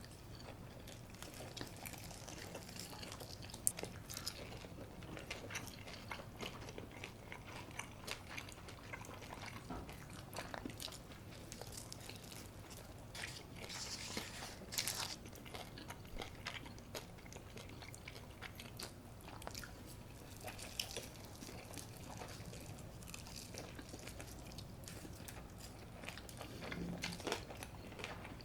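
Close-miked crunchy bites and chewing of crispy brown-rice-coated baked chicken, a run of small sharp crackles with a louder cluster about halfway through.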